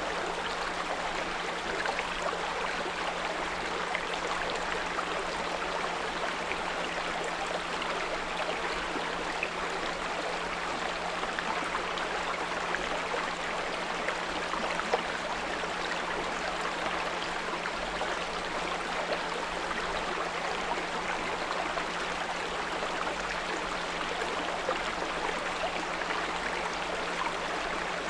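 Small brook trickling and babbling steadily over stones, with a steady low pure tone at 174 Hz held underneath.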